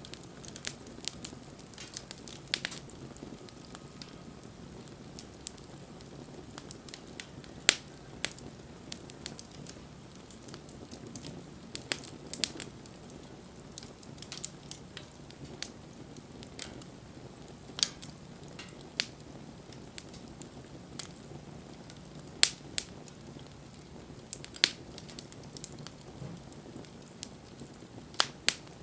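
Wood fire crackling: irregular sharp pops and snaps, a few much louder than the rest, over a low, steady rush of flame.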